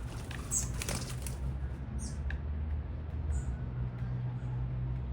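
Small birds giving short, high chirps at a feeder, a few times over several seconds, with a few clicks near the start, over a steady low city traffic rumble.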